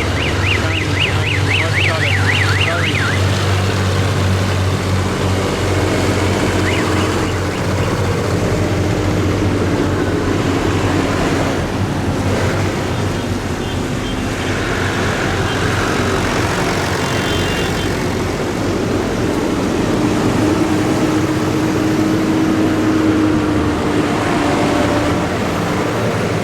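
Tractor engines running steadily as a line of tractors goes by. A fast-warbling siren-like tone sounds for the first few seconds, and a few short high beeps come around the middle.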